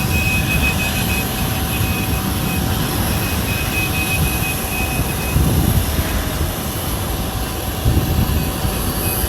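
Jet aircraft noise: a steady rumble with a constant hum and a thin, high whistle that comes and goes in the first half.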